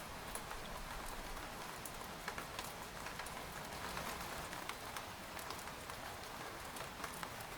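Steady rain pattering on a tent's fabric, an even hiss with many separate drops ticking on it.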